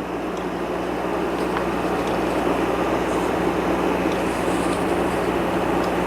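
A train running past on the track: a steady rumble with a low hum under it, slowly growing louder.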